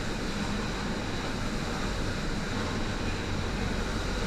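Steady machine noise with a low hum and a faint high whine, running evenly without change.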